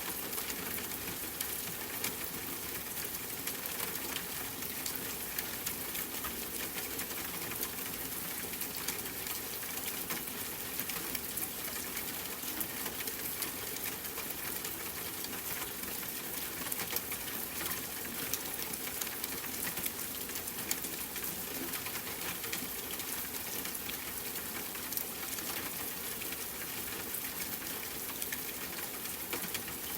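Steady rain with a dense, even patter of individual drops.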